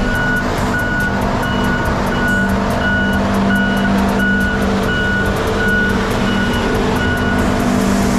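Heavy-equipment backup alarm beeping evenly, a bit under two beeps a second, over a diesel engine running steadily. The beeping stops near the end.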